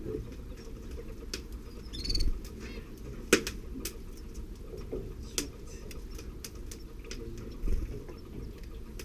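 Canary moving about in the nest: scattered sharp taps and rustles, the loudest about three seconds in, with one brief high chirping call about two seconds in.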